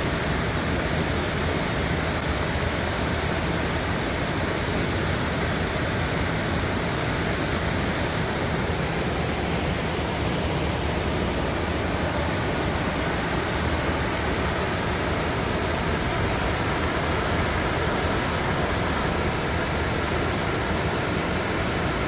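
Steady rush of a small waterfall and the stream flowing over rocks below it.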